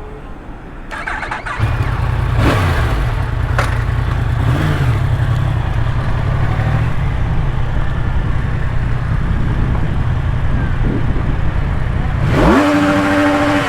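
A 300 motorcycle fitted with a four-wheeler (quad) slip-on exhaust running with a loud, low, steady rumble that gets louder about a second and a half in. Near the end it is revved once, the pitch climbing and then holding.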